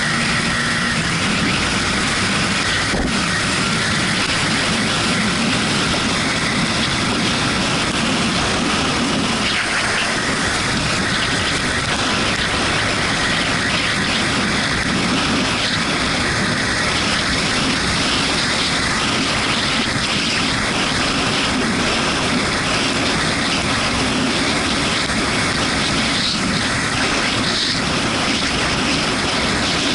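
Yamaha MT-125's single-cylinder engine running under steady wind and wet-road noise as the motorcycle is ridden in the rain.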